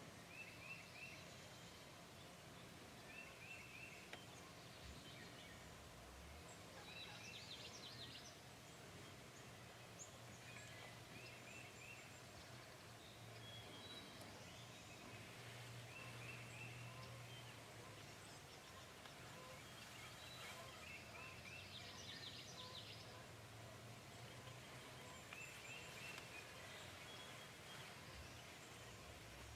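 Faint outdoor ambience with a low steady hum, and short bird calls repeating every few seconds, along with a few brief rattling calls.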